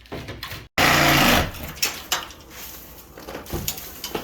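A power tool cutting into a plaster ceiling: a short loud burst of motor-driven cutting, followed by scattered knocks and clicks of the work.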